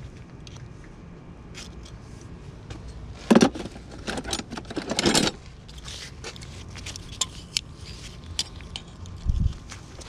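Handling noise of objects being moved about: scattered clicks and light clinks, with two louder scrapes about three and five seconds in.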